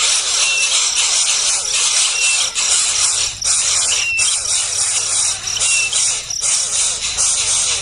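Baby birds calling shrilly and without pause, with a short falling whistle note repeating about once a second.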